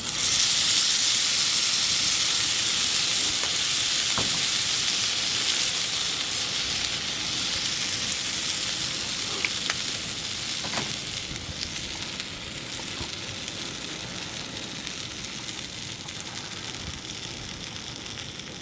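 Gyoza sizzling hard in a hot pan. The sizzle starts suddenly and loud, then slowly eases off, with a few small pops.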